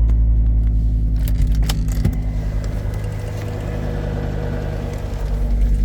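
Volvo XC90 D5's five-cylinder turbodiesel idling steadily while still cold after a start at −19 °C. A few sharp clicks and rattles come about one to two seconds in, and a louder knock right at the end.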